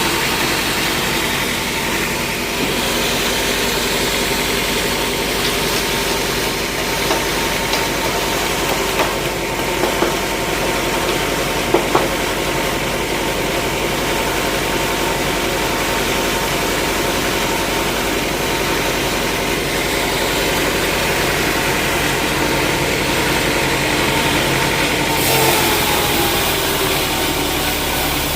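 Sawmill machinery running steadily, a motor's continuous hum with a few sharp knocks around the middle. Near the end the sound shifts and its pitch slides down a little.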